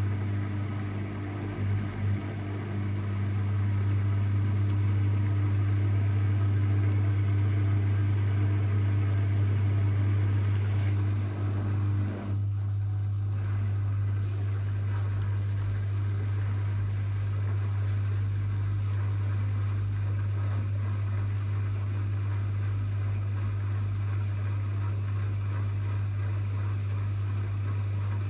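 Zanker EFX 4875 front-loading washing machine running in its final spin cycle, a steady low mechanical hum. About twelve seconds in, part of the hum cuts out with a brief dip, and the machine keeps running at a steady level.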